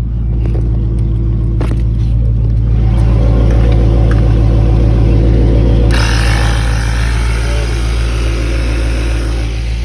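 Gas-station air machine's compressor running with a steady low hum; about six seconds in a loud hiss starts and holds, as air flows through the hose into a tire.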